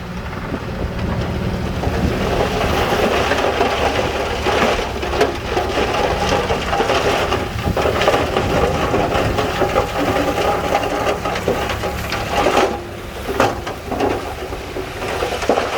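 Heavy earth-moving machinery at work: a diesel engine running steadily under a continuous clattering and crunching, with many sharp knocks.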